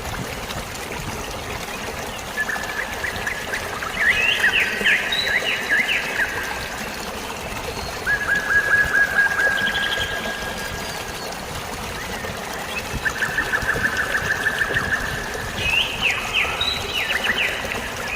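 Steady splashing of flowing water, with a songbird singing bouts of fast trills, each a rapid run of repeated notes, several times over, mixed with a few higher chirps.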